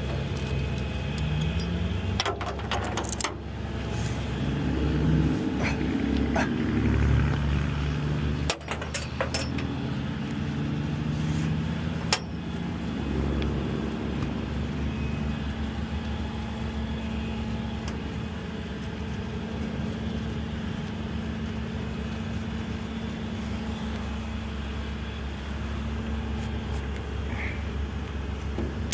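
A vehicle engine running steadily, its pitch rising and falling during the first half, then holding level. Several sharp clicks and rattles come over it a few times in the first half.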